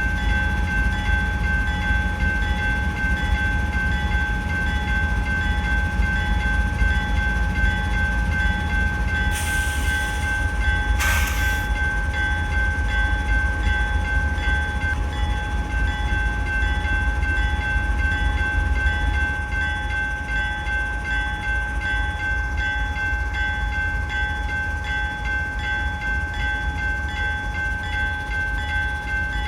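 Freight train running: a deep steady rumble under a steady high whine. Two short hisses come about ten and eleven seconds in.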